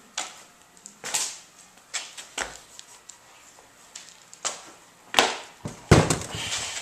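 Irregular handling noises: a string of short knocks and rustles, like boxed parts and packaging being moved and set down, with the loudest two knocks near the end.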